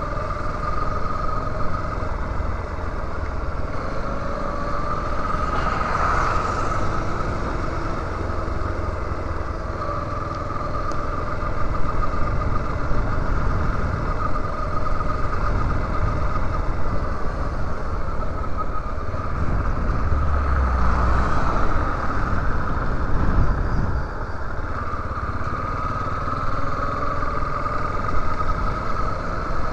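Yamaha Lander 250's single-cylinder four-stroke engine running as the motorcycle rides along, its note rising and falling with the throttle. Heavy wind rumble on the helmet-mounted microphone sits underneath.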